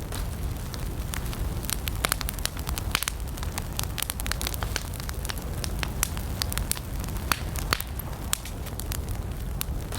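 Wood campfire burning, with irregular sharp pops and crackles several times a second over a steady low rumble of the flames.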